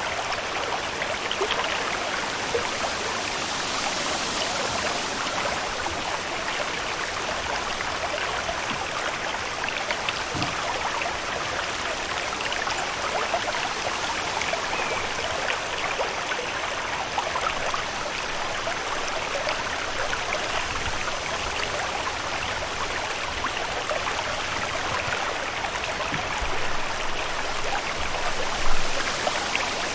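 Steady water ambience: a continuous rush of running water with fine droplet-like patter, and one brief louder splash or swell near the end.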